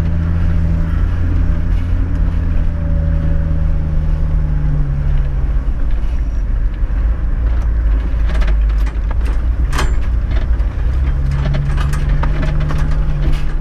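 Toyota Land Cruiser 105 Series engine running under load, heard from inside the cabin while crawling a rutted track. The engine note eases off about five seconds in and picks up again near the end, with a few knocks from the vehicle over the ruts.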